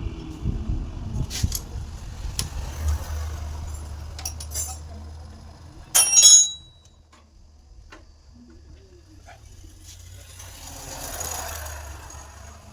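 A machine's low, steady hum, fading toward the end, under scattered clicks of metal parts being handled, with one sharp ringing metallic clink about six seconds in.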